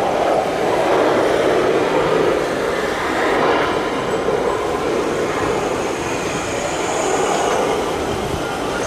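Jet engines of a Boeing 737-800 (CFM56 turbofans) during its landing: a loud, steady rushing roar with slight swells in level.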